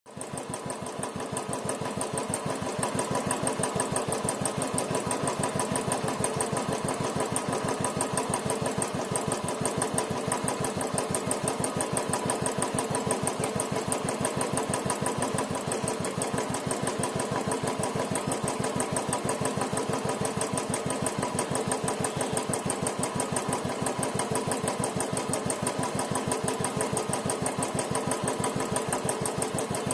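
Royal Enfield Bullet's single-cylinder four-stroke engine running at a steady speed with an even, rapid beat that holds constant throughout.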